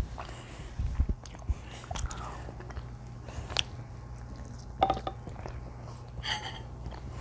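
Close-miked chewing and biting of food, with scattered short mouth smacks and clicks.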